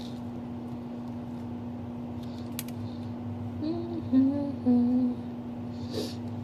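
A woman making a few short humming "mm" sounds about four seconds in, over a steady electrical hum, with a sharp click a little before that.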